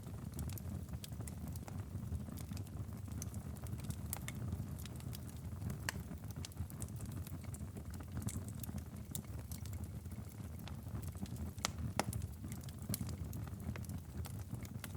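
Wood fire in a fireplace crackling and popping with irregular sharp snaps over a steady low rumble, one loudest pop about twelve seconds in.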